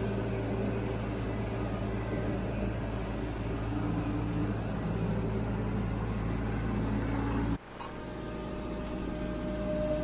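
Compact tractor's diesel engine running steadily at constant speed. About three-quarters of the way through, the sound cuts off abruptly and resumes with a slightly different pitch.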